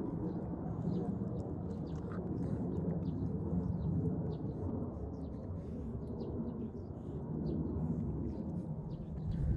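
Small birds chirping in many quick, short calls over a steady low rumble.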